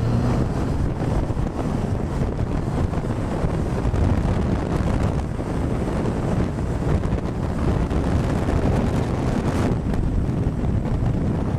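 Loud, steady wind buffeting the microphone of a moving motorcycle, a dense rush that covers any engine note.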